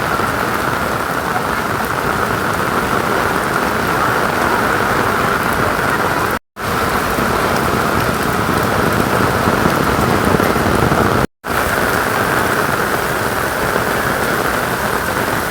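Steady rain falling, an even hiss of heavy rainfall that cuts out for a split second twice, about halfway through and again near two-thirds of the way.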